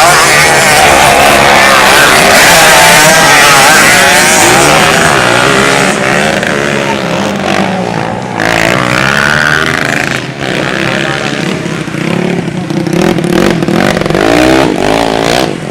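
Several race motorcycle engines revving hard and overlapping, their pitches rising and falling as the bikes race. Loudest in the first few seconds, easing off around the middle.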